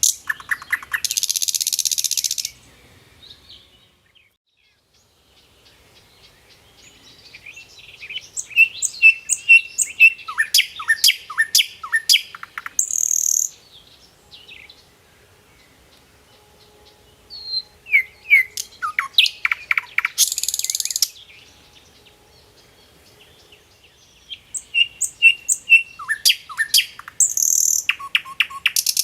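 A songbird singing in repeated phrases of quick chirps and falling trills, each phrase ending in a short buzzy note, with a phrase coming about every seven seconds and brief quiet gaps between.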